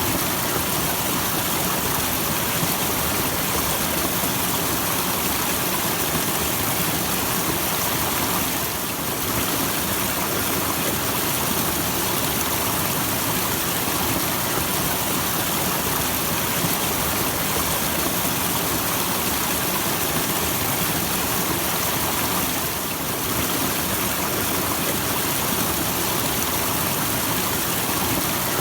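Small waterfall: water falling and splashing in a steady, full hiss, dipping slightly twice.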